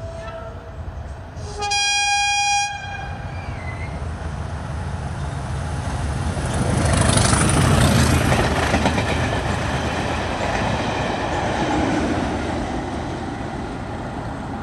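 A train horn sounds one high note for about a second, then a locomotive-hauled train of coaches runs past close by: a rising rush and rumble of wheels on the rails that is loudest about halfway through and slowly fades.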